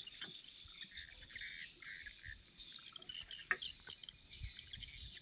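Small birds chirping and twittering, a dense mix of short high calls, with a single sharp knock about three and a half seconds in.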